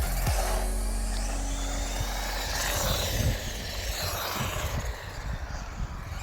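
Two 1/16-scale FTX Tracer RC monster trucks, four-wheel drive with brushed electric motors, racing on tarmac: motor whine and tyre noise, a little quieter in the last second or two.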